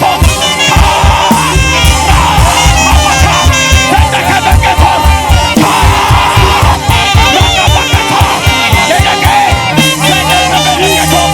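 Live praise band music: a steady drum beat with bass under a weaving lead melody. The beat drops out near the end, leaving a held bass note.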